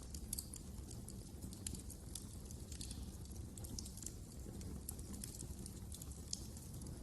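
Wood fire crackling: irregular small snaps and pops, several a second, over a steady low rumble of the flames.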